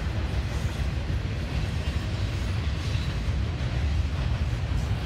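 Two Norfolk Southern intermodal freight trains passing each other, a steady rumble of wheels on rail with a broad rushing noise from the cars.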